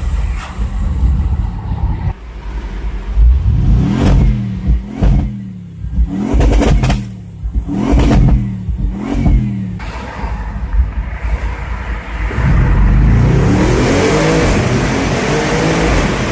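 Audi RS6 C7's twin-turbo V8 with a performance exhaust: from about four seconds in, a run of about six quick sharp revs, each falling back with crackles from the exhaust. After a short lull, from about twelve seconds in, a long hard acceleration with the engine pitch climbing.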